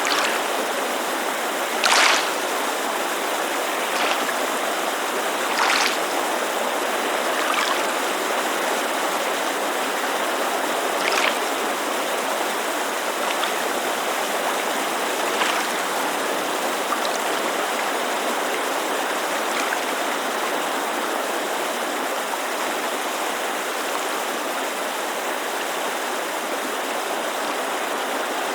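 Steady rushing of a creek, with small waves lapping at a lakeshore in brief splashes every few seconds, more often in the first half.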